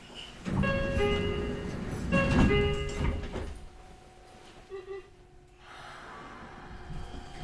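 Electronic door chime sounding twice, each with steady pitched tones, as the sliding doors of a Meitetsu 4000 series train close, followed by a quiet pause at the platform.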